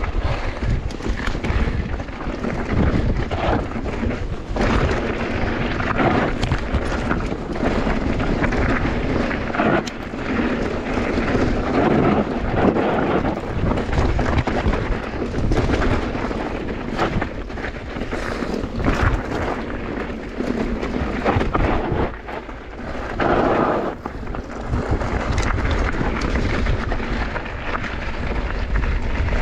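Mountain bike riding down a bike park trail: constant wind rumble on the camera microphone, with tyres and frame rattling and knocking over rough ground.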